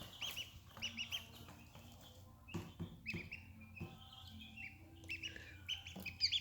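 Newly hatched mallard ducklings peeping: many short, high peeps in quick clusters, with a couple of soft knocks in the middle and a faint steady hum underneath.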